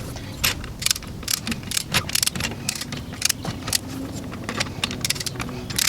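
Metallic clicks of a wrench working the lug nuts as a wheel is refitted, a few sharp clicks a second at an uneven pace, over a steady low hum.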